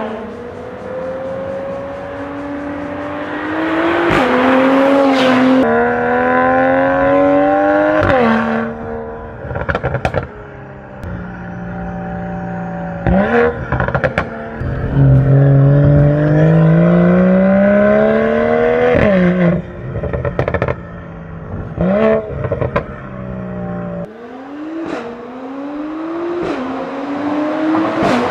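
Mercedes-AMG CLS53's turbocharged inline-six through an Armytrix aftermarket exhaust, pulling hard several times. The engine note climbs in pitch and falls back at each gear change, with sharp crackles and pops at the shifts.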